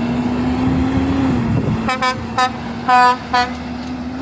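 A heavy truck's engine drone, then about two seconds in its Hadley H2102A air horn sounds five short honks, the one near three seconds the longest and loudest.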